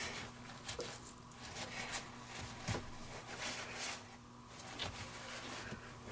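Cloth rustling and scattered light clicks and knocks from handling and wiping dry the cap of a sailboat engine's raw-water strainer, over a faint steady hum.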